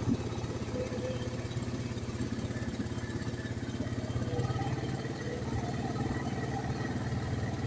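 ATV engine running steadily while riding, a dense low pulsing that holds even throughout.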